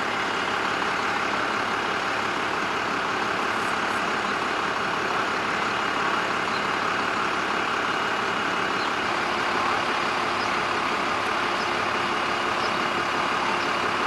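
Steady running noise of a large engine idling, with a faint steady whine over it; a lower steady hum joins about nine seconds in.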